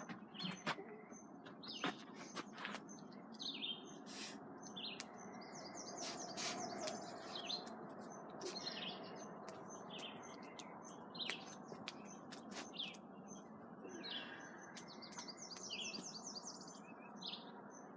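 Small birds chirping and singing repeatedly, with two rapid trilled phrases, over a steady low hiss and scattered sharp pops and clicks.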